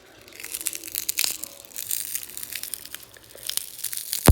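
A cracked glass phone screen protector being bent and broken apart by hand: dense crackling and crunching of the shattered glass, with one loud sharp snap near the end.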